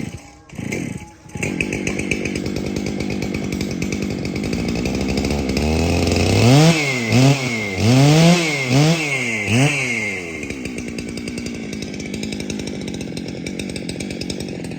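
Two-stroke chainsaw engine catching with a few short sputters, then running steadily. About six seconds in it is revved several times, the pitch rising and falling repeatedly, before it settles back to a steady run and cuts off at the end.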